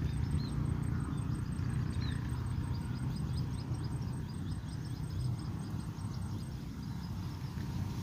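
Small birds chirping in many short, quick calls that grow busier about two seconds in, over a steady low rumble. A high, even ticking, about five a second, runs beneath them and stops near the end.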